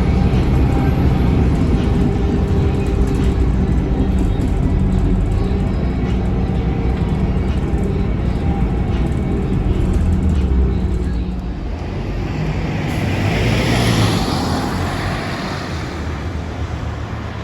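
A Scania K280UB bus's DC9 diesel engine running with a steady drone, heard on board. About twelve seconds in, the engine note drops away and a rushing hiss swells and fades over a few seconds.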